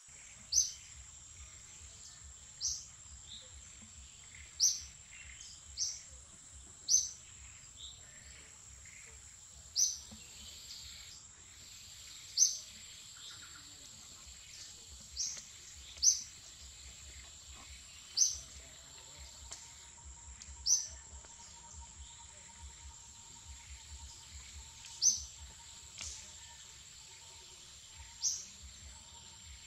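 A bird calling in short, sharp, high chirps, repeated at uneven gaps of one to four seconds, over a steady high-pitched whine.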